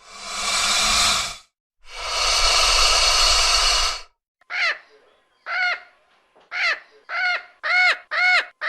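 Two long, harsh, noisy animal calls, then a run of crow caws starting about halfway through: short, arched, repeated calls about every half second or so.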